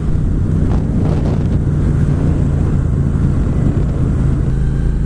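Triumph Bonneville T120's 1200 cc parallel-twin engine and British Customs Sleeper Pro exhaust running at a steady cruise, heard from the rider's helmet with wind buffeting the microphone.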